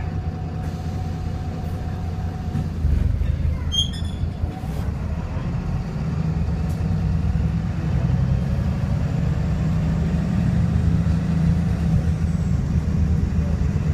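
VDL SB200 single-deck bus diesel engine running. About three seconds in it gets louder and keeps pulling hard, with a brief high chirping about four seconds in. The engine is described as misfiring and very unhealthy.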